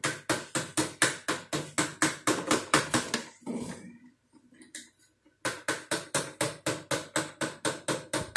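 Toy screwdriver from a take-apart construction truck kit, running with a rapid clicking of about five clicks a second, in two spells with a short pause between them.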